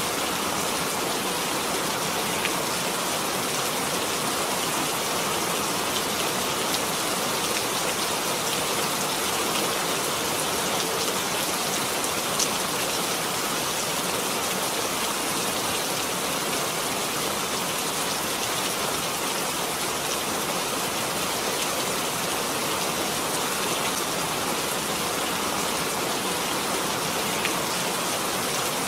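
Steady rain falling, an even patter with scattered sharper drop taps.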